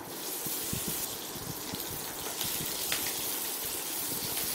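Chopped onions sizzling as they hit hot oil in a kadai, a steady frying hiss, with a few light knocks of a wooden spatula stirring them.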